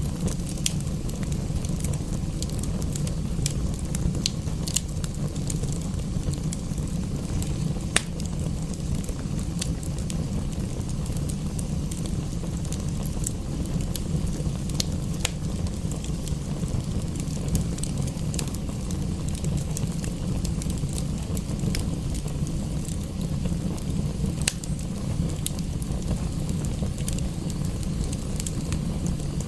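Wood fire crackling, with irregular sharp pops scattered through and one louder pop about eight seconds in, over a steady low rumble.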